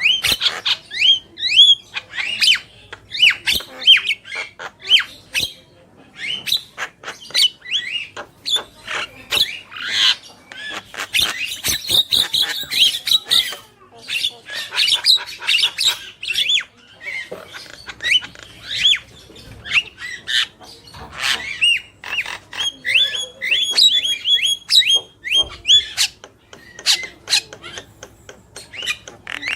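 Javan myna (jalak kebo) calling vigorously: a fast, unbroken stream of squawks, short rising whistles and sharp clicks.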